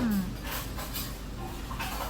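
Restaurant room noise: a steady background hum with indistinct voices, and a voice trailing off at the very start.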